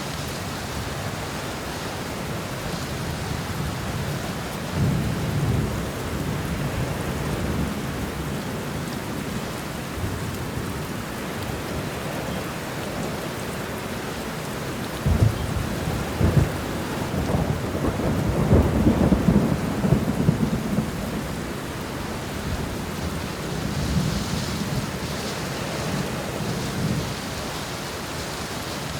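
Steady heavy rain with rolling thunder: a low rumble about five seconds in, then a louder spell of cracks and rumbling from about fifteen to twenty-one seconds, and a fainter roll near the end.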